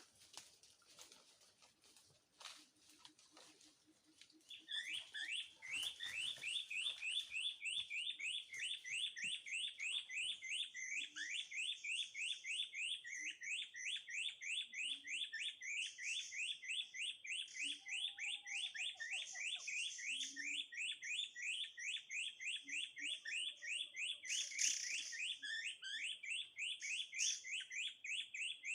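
A recorded bird call played through a speaker as a lure for murai kopi: a fast, steady, unbroken run of short rising chirps that starts about four and a half seconds in. Before it there are only faint ticks.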